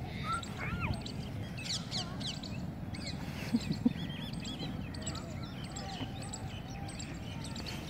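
Small birds chirping and twittering again and again over a steady low background noise.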